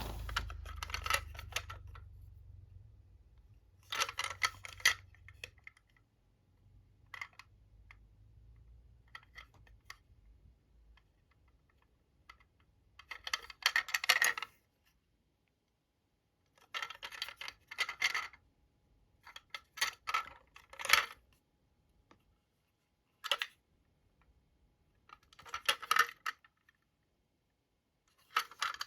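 Plastic toy train and its packaging being handled: short clusters of small clicks, taps and rattles, separated by silent gaps of a few seconds.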